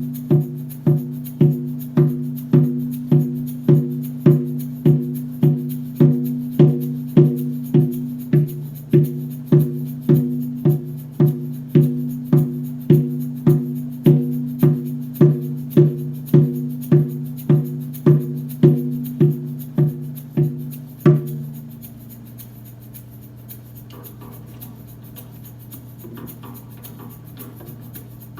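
A hand drum beaten in a steady, even pulse, a little faster than one beat a second, over a low sustained drone. The beating stops about 21 seconds in, leaving the drone ringing on more quietly.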